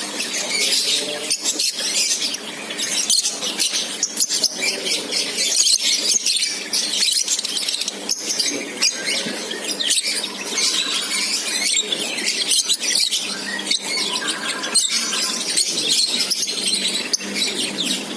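A flock of lovebirds chattering together in a colony, a dense, continuous mass of overlapping high-pitched chirps and shrill squeaks.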